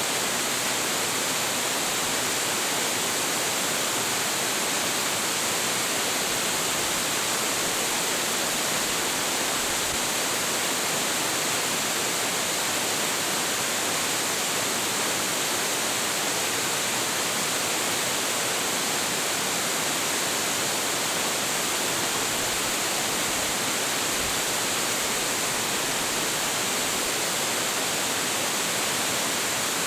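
A large waterfall, Hiji Great Falls, pouring in a steady, even rush of falling water.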